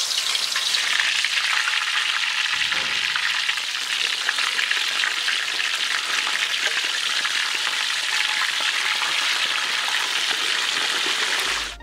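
Chicken leg quarters sizzling and crackling as they fry in hot oil in a steel wok, a steady dense crackle that cuts off suddenly near the end.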